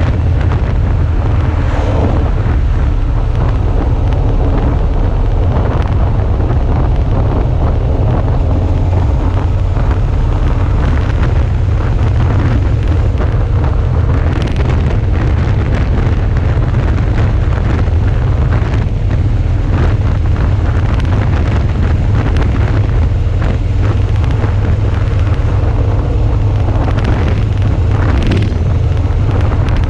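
Heavy wind buffeting on the camera microphone while riding a Suzuki V-Strom 650, with the bike's V-twin engine running steadily underneath. Brief swells of noise come about halfway through and again near the end.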